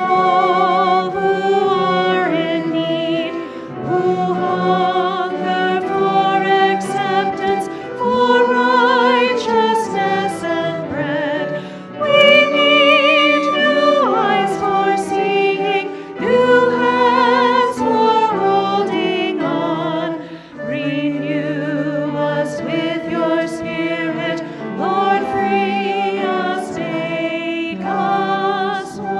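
Choral singing: voices hold sustained phrases with vibrato, with short breaths between phrases.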